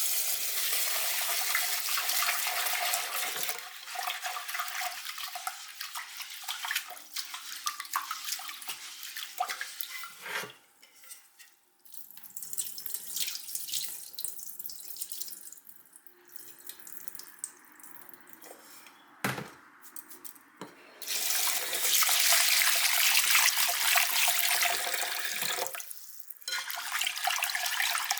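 Kitchen tap running into a pot in two long stretches, with quieter swishing and splashing of water between them: rice being rinsed before cooking.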